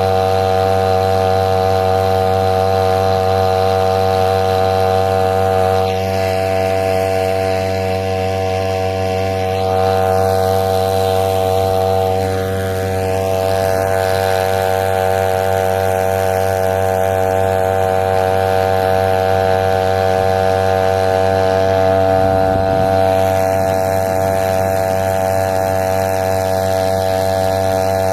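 A small engine running at a constant speed, holding one steady pitch throughout.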